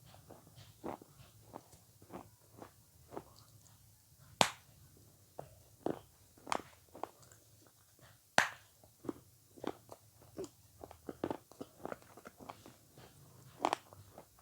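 Close-miked chewing and biting of avocado: a steady run of short wet mouth clicks and smacks, several a second, with three sharper, louder bites about four, eight and fourteen seconds in.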